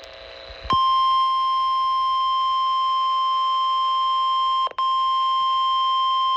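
NOAA Weather Radio 1050 Hz warning alarm tone, which signals that a watch or warning is about to be broadcast. It is a steady single high tone that starts under a second in and drops out briefly about four seconds in.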